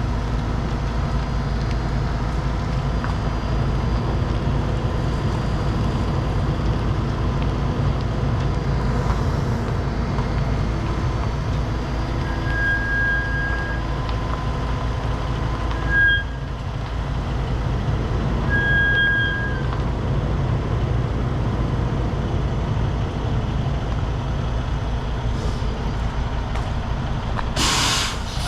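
Heavy diesel truck engines running steadily during a winch recovery pull, with a few short high beeps midway. A burst of air-brake hiss near the end.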